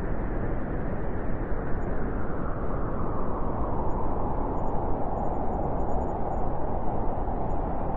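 Wind blowing steadily, a full rushing noise with deep rumble, its mid-pitched hiss growing a little stronger in the second half.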